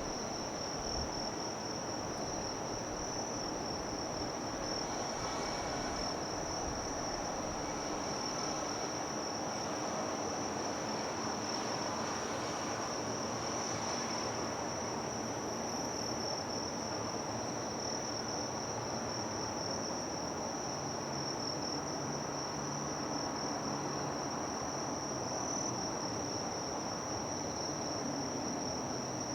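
A steady, high-pitched insect chorus, a continuous trill held at one pitch, over a low, even background rumble.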